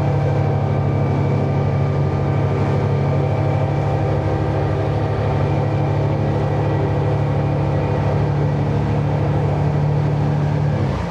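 Boat's outboard motor running steadily under way, then throttled back near the end.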